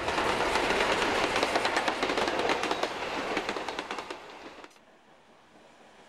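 Train running past, its wheels clicking in quick regular succession over the rail joints. The sound fades and then cuts off suddenly about four and a half seconds in, leaving only faint background.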